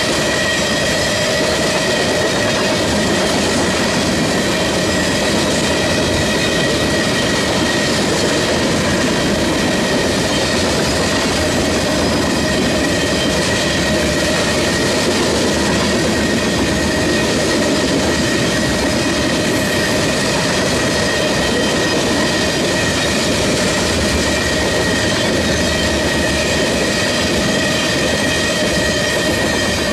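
Freight train tank cars rolling past close by: steady wheel-on-rail noise with a clatter over the rail joints and a continuous high ringing tone on top.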